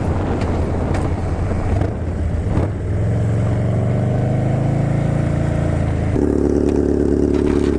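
Harley-Davidson V-twin motorcycle engine running under way, its note rising gently from about three seconds in, then changing abruptly about six seconds in to a steady note.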